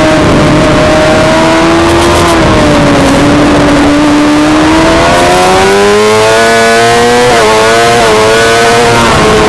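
Suzuki GSX-R600 race bike's inline-four engine at high revs on track: the engine note eases slightly, then climbs steadily under acceleration, with a couple of quick pitch flicks near the end, over wind rush.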